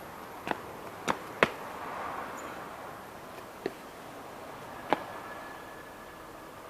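Five sharp knocks, two close together about a second in, then single ones later, over a steady hiss.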